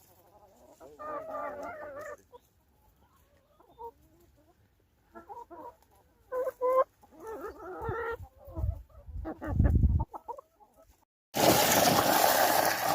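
Chickens clucking in a string of short calls. Near the end a loud, steady rushing noise starts suddenly.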